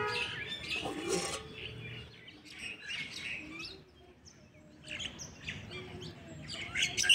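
Small birds chirping and calling in a series of short chirps and quick pitch glides, loudest right at the start and in a burst of chirps near the end.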